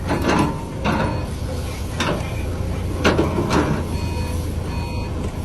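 Heavy diesel engines of a dump truck and an excavator running with a steady low drone, with several short loud surges over it.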